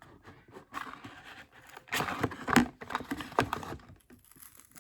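Stiff plastic-and-cardboard toy car packaging being pried and torn open with difficulty, crinkling and crackling in irregular bursts with sharp clicks.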